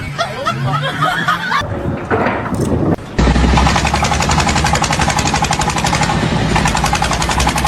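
A machine hammering rapidly and steadily, many blows a second. It starts abruptly about three seconds in, over a deep rumble. Before it there are voices.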